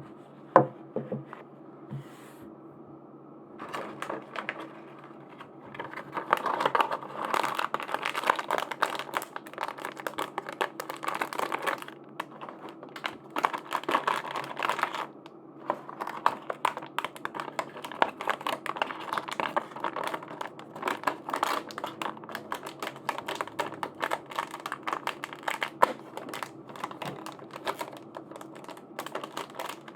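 Plastic packaging crinkling and rustling by hand, with many small sharp clicks and taps of handled plastic; the crinkling is densest for long stretches in the middle.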